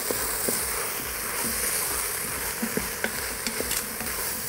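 Bacon, onion, peppers and halved potatoes sizzling in a hot Instant Pot's stainless steel inner pot on the sauté setting, stirred with a wooden spoon that knocks against the pot now and then.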